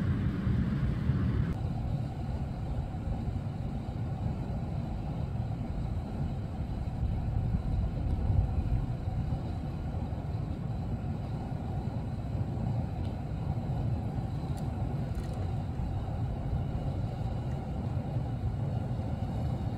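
Steady low rumble of a car engine idling, heard from the car.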